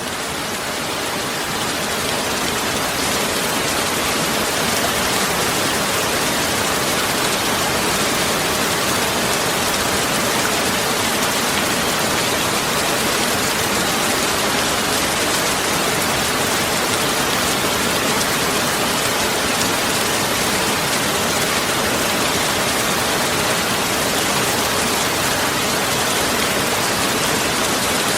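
Heavy rain falling steadily, a dense even hiss. It swells up over the first few seconds, then holds level.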